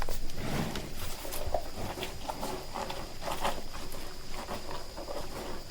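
Cattle moving about on hard ground: irregular hoof steps and knocks, with a faint steady high whine underneath.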